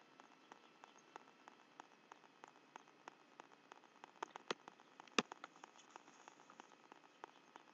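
Light rain: scattered raindrops ticking close to the nest webcam's microphone as a faint, irregular patter of clicks, with a few louder ticks about four to five seconds in.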